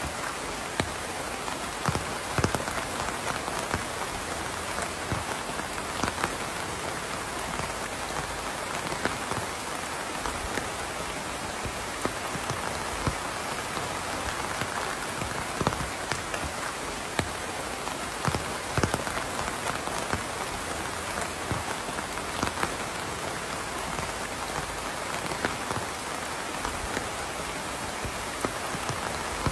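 Steady rain falling on a surface, an even hiss with scattered louder drips and taps.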